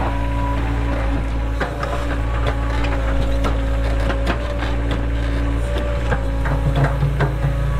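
Cat 307 excavator's engine running steadily, with irregular sharp cracks and knocks from about a second and a half in as material is worked.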